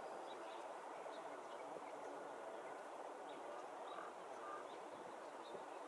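Faint outdoor ambience: a steady low hiss with scattered small bird chirps, and two short chirps about four seconds in.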